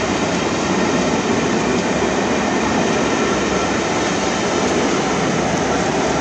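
Train of Pullman coaches passing at speed on the main line: a steady noise of steel wheels running on the rails, holding level as the coaches go by.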